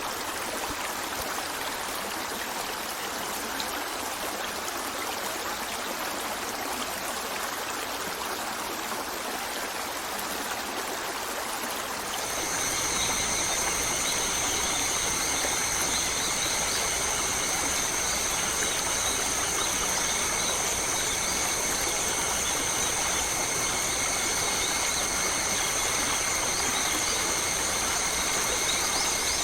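Stream water flowing steadily. About twelve seconds in, the sound changes abruptly to a louder, steady background with several steady high-pitched tones held over it.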